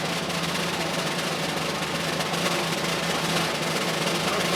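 Snare drum roll, steady and continuous, with a low hum underneath.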